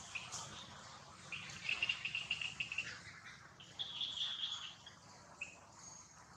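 Birds chirping in the forest, with two runs of rapid high-pitched trilled notes, one starting about a second and a half in and one around four seconds in.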